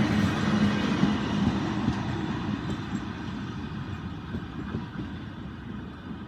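Pakistan Railways passenger train's coaches rolling on the track, a rumble with wheel clatter that fades steadily as the train draws away.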